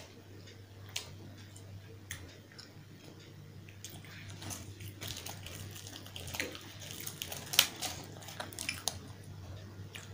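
Close-miked eating sounds: a fried puri torn apart by hand and scooped through wet potato curry, giving a run of crackles and wet clicks that thicken in the second half, the sharpest about three-quarters of the way in. A steady low hum runs underneath.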